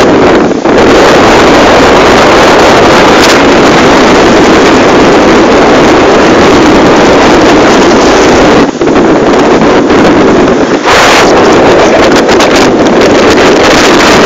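Strong typhoon wind buffeting the camera microphone: very loud, continuous wind noise that drops away briefly a few times as the gusts shift.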